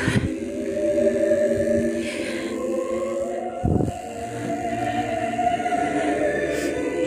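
Choir singing a slow piece in long held chords. A short knock comes a little under four seconds in.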